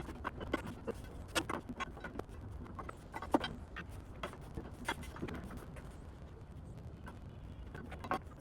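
Irregular light clicks and knocks of metal generator parts being handled and moved, over a low steady hum.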